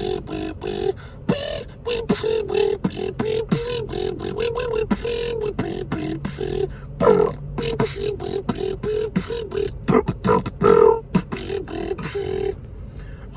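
A person beatboxing: quick mouth-made kick and snare clicks over a hummed melody line that keeps bending and breaking off.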